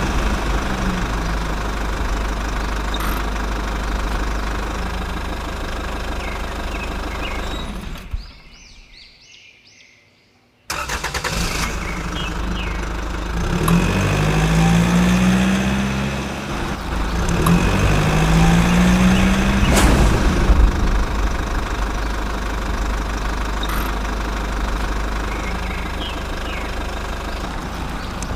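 Small motor of a homemade mini tractor running steadily, its pitch rising briefly a few times. About a third of the way in, the sound fades away and then cuts back in abruptly.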